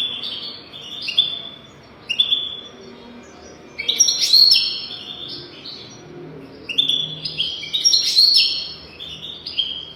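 European goldfinch singing: a fast run of short twittering notes, with louder, denser bursts of song about four seconds in and again around seven to eight seconds in.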